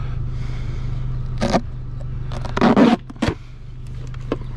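Vehicle engine idling with a steady low hum, with short knocks and clunks about one and a half and three seconds in; the loudest comes near three seconds, and after it the sound is quieter.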